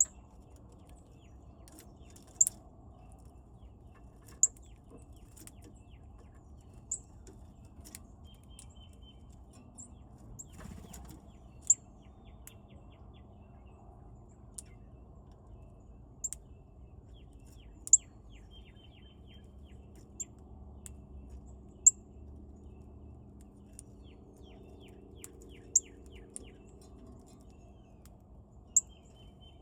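Wild birds at a feeder giving short, sharp, high chip notes, one every couple of seconds, over a steady low background hum. A faint rapid run of short notes comes near the end.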